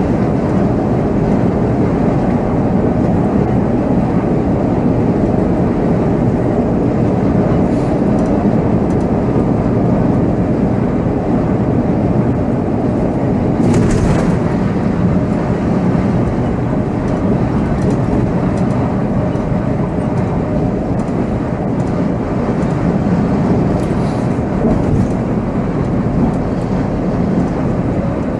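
Volvo B7R coach's engine and road noise on the move, heard from the driver's seat: a steady, loud drone with a few brief rattles, the clearest about halfway through.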